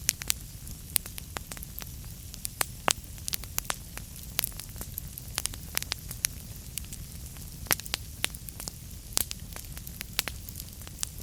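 Wood fire in a fireplace crackling: frequent, irregular sharp pops and snaps over a steady low rumble and soft hiss.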